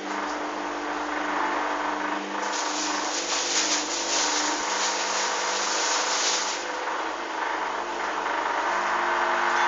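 Hoover washing machine running mid-cycle on a towel wash, with a steady motor hum. About two and a half seconds in, a louder hiss joins for around four seconds, then falls back.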